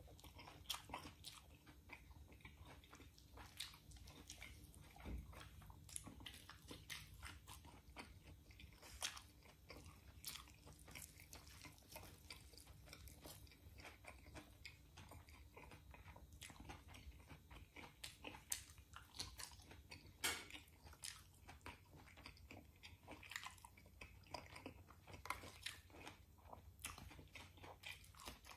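Close-up eating sounds of a man chewing rotisserie chicken: irregular wet mouth smacks and clicks, with a crunchy bite of romaine lettuce near the end.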